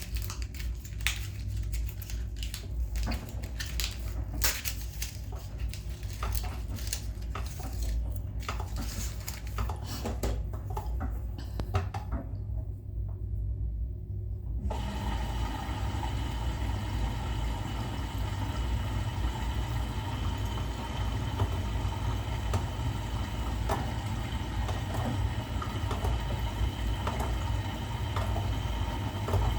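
Bosch Serie 6 washing machine with water filling and running. Clicks and knocks come through the first half over a steady low hum. About halfway the sound changes abruptly to a steady even hum with a faint whine.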